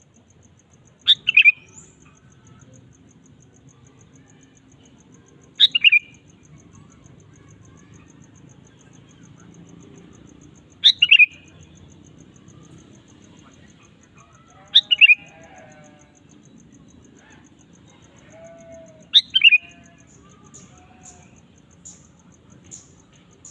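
Sooty-headed bulbul giving five short, loud calls about every four seconds, each a quick falling phrase, with a faint fast ticking going on steadily in the background.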